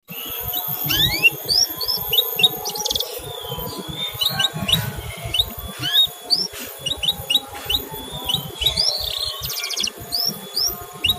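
Male canary giving a quick series of short, rising 'cuit' chirps, with a couple of brief buzzy trills.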